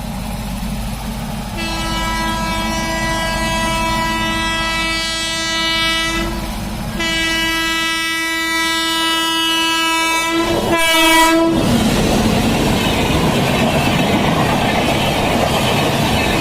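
Horn of an Indian Railways WAP7 electric locomotive sounding two long blasts, then a few quick short toots, over a low running rumble. It gives way to the loud rush and wheel clatter of the LHB coaches passing.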